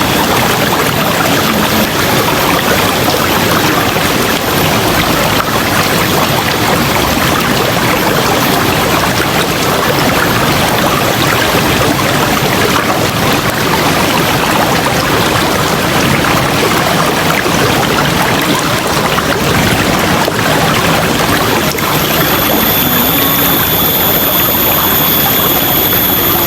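River water rushing in a steady, full noise. Near the end, a steady high-pitched whine joins it.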